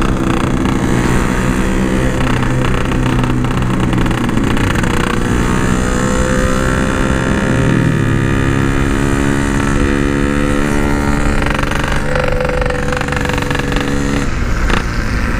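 Two-stroke single-cylinder engine of a ported Yamaha RX-King motorcycle running under way at a steady pitch, its note changing about halfway through, with a brief sharp click near the end. The rider says the bike is hanging up in gear.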